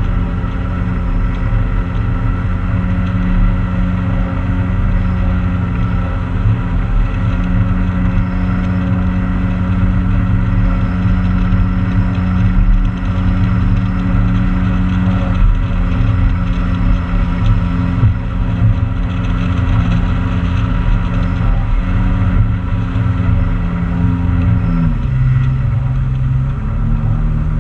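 Motorboat engine running steadily under way, with low rumble; about 25 seconds in the engine's pitch drops as the throttle is eased back.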